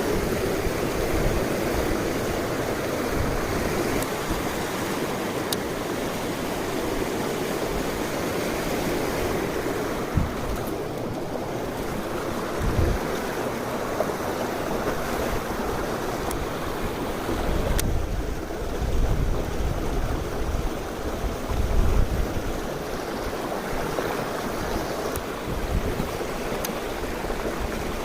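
Mountain stream rushing steadily over rocks, with occasional low rumbles of wind on the microphone, strongest in the second half.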